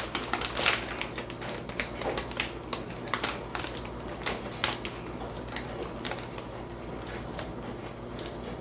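Crunchy Funyuns onion-flavored rings being chewed, sharp crackling crunches that come thick at first and grow sparse after about a second. A steady low hum runs underneath.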